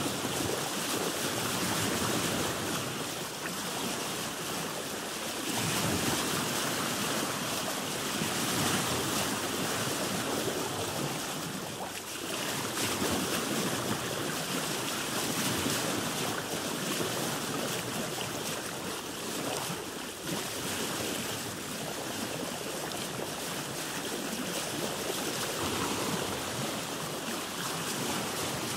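Sea water washing and splashing against a boat's hull, a steady rushing that swells and eases every few seconds.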